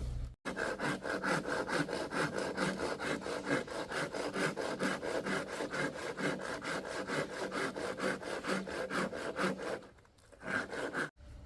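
A hand saw cutting through wood in quick, even back-and-forth strokes, about four or five a second, with a short pause near the end.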